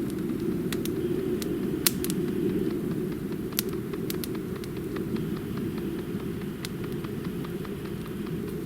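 Small campfire crackling: irregular sharp pops and snaps, the loudest about two seconds in, over a steady low rumble.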